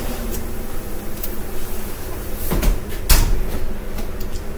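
Kitchen clunks, two sharp knocks about half a second apart a little past the middle, like an appliance or cupboard door and cookware being handled as the cooked wings are taken off the heat, over a steady low hum.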